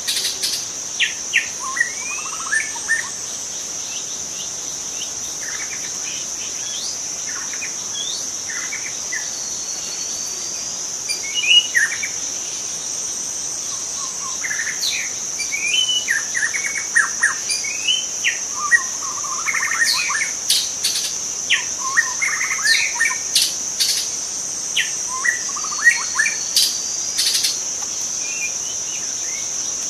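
Young wild white-rumped shama singing varied phrases of whistles and sharp clicking notes, sparse at first and busier in the second half, over a steady high-pitched insect drone.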